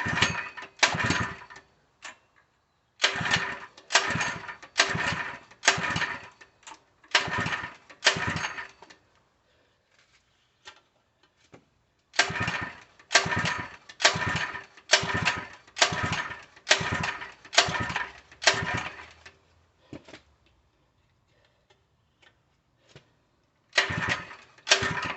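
Harbor Freight 3 hp small gas engine being cranked with its recoil pull-starter. It goes in quick runs of pulls, each a short whirring chug of the engine turning over, with a few seconds' pause between runs. It never catches and runs, which the owner puts down to a fuel delivery problem.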